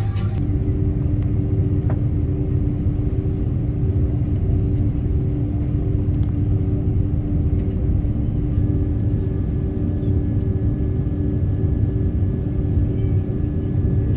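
Airliner jet engines heard from inside the cabin: a steady rumble with a couple of steady whining tones, and a higher whine joining about halfway through.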